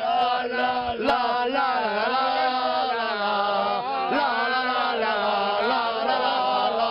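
Football fans chanting a song, voices held on long sung notes without a break.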